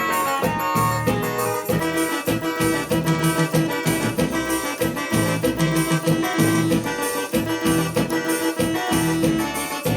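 Instrumental forró break from a live band: a keyboard melody over a steady, driving beat, with no singing.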